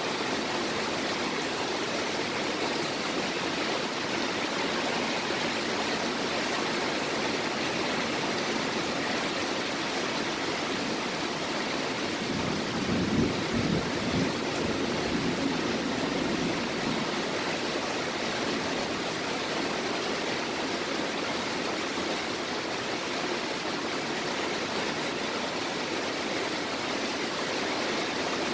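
Heavy rain from a thunderstorm squall line falling steadily, an even hiss, with a brief low rumble about halfway through.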